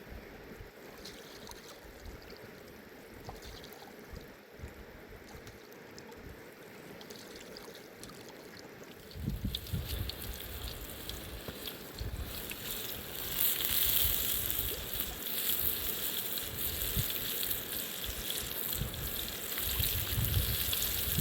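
Water of a fast river rushing steadily. About nine seconds in it grows louder, with low rumbling buffets over the rush.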